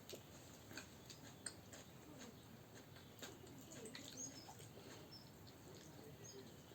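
Near silence: faint scattered clicks, with two faint, short high chirps about four and six seconds in.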